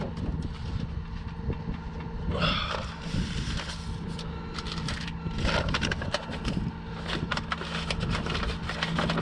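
An engine running steadily with a low hum, under a scatter of crunching and clicking sounds that grow dense near the end.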